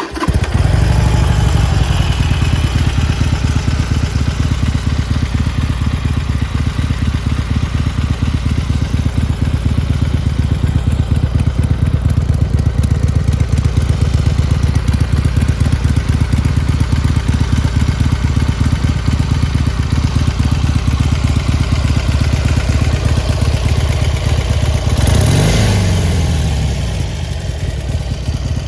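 A 2019 Harley-Davidson Sportster Iron 883N's air-cooled 883 cc V-twin fires up suddenly and settles into a steady idle with a fast, uneven pulsing beat. About 25 seconds in, one blip of the throttle sends the pitch up and back down before it returns to idle.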